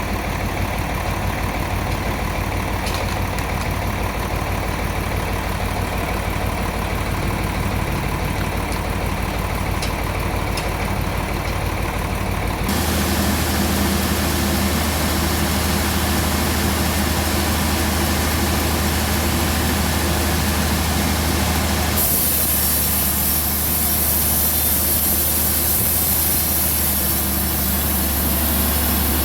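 A heavy engine running steadily at a constant speed. Its tone changes abruptly about 13 seconds in, and a hiss comes up near 22 seconds.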